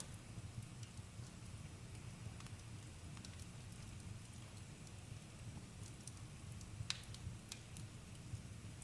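Campfire crackling: a steady low rumble of burning with scattered sharp pops, the loudest about seven seconds in.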